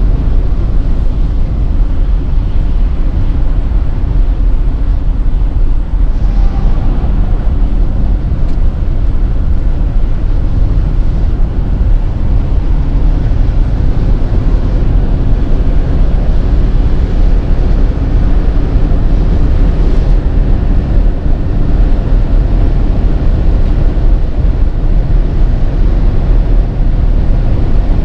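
Audi Q8 50 TDI's 3.0-litre V6 diesel under way on the road, a loud steady rumble of engine, tyre and wind noise with no clear gear changes.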